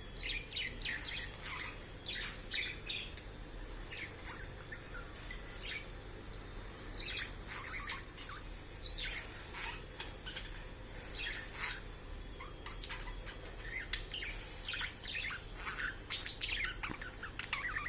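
Budgerigar chatter: a fast, continuous run of short chirps and warbles, broken now and then by a sharper, louder call.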